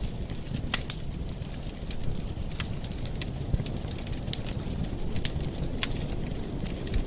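Wood campfire burning, with a steady low rumble of flame and scattered sharp crackles and pops from the burning wood.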